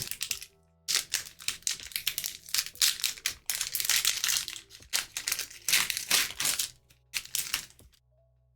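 Foil wrapper of a Pokémon TCG booster pack crinkling and rustling in the hands in irregular bursts, stopping about eight seconds in.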